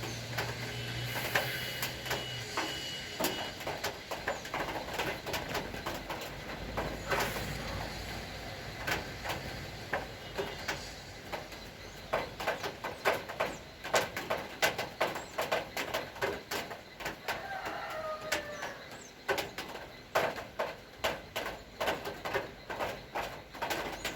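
Light rain with drops dripping and tapping irregularly onto a hard surface, the taps coming thicker in the second half. A short bird call is heard about three-quarters of the way through.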